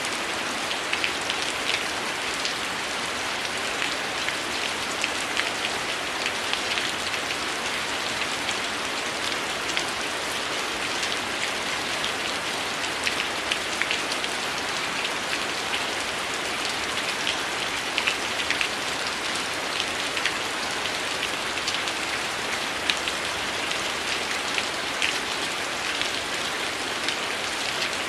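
Steady heavy rain: a dense, even hiss with frequent small sharp ticks scattered through it.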